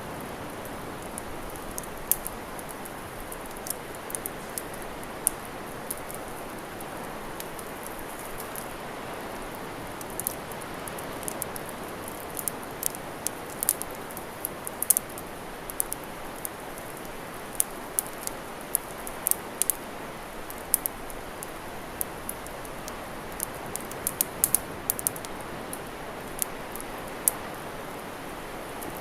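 Wood campfire crackling with many irregular sharp pops and snaps over a steady wash of sea waves.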